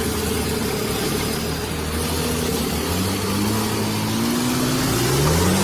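Motor vehicle engine running under heavy noise, its pitch rising steadily from about halfway through as it accelerates.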